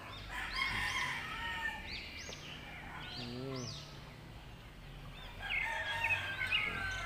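Birds calling: many quick high chirps come and go, busiest at the start and again near the end, with a short lower call a little past three seconds in.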